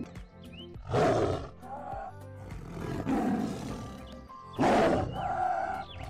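Tiger calling, with two loud, rough calls about a second in and near the end and weaker ones between, over background music.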